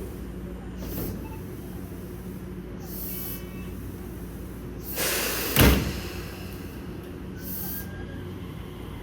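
Electric commuter train standing at a station platform, running with a steady low hum, with short hisses of air. A little past halfway comes a loud clunk, typical of the train's doors closing before it pulls away.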